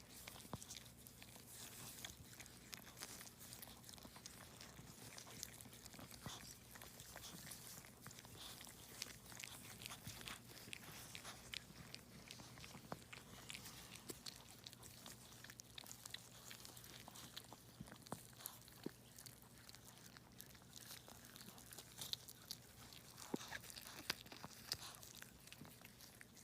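Faint, irregular wet clicks and smacks of a Shih Tzu's mouth, chewing or licking, over a low steady hum.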